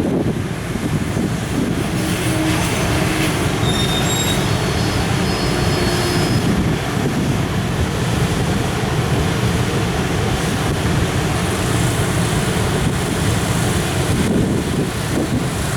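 JR Freight container train pulling out behind an EF510 electric locomotive: Koki container wagons roll past with steady wheel and running noise. A few brief, thin wheel squeals come in the first several seconds.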